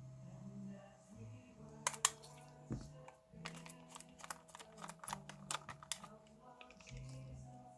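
A quick run of light clicks and taps, like small tools and parts being handled, from about two seconds in until a second or so before the end, over quiet background music with low held notes.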